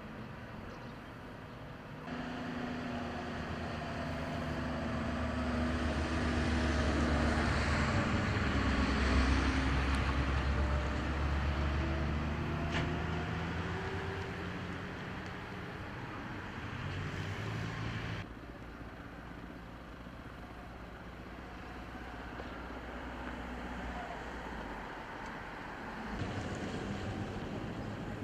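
Firefighting aircraft engines passing overhead, growing louder to a peak and then fading as they pass. The sound changes abruptly a few times.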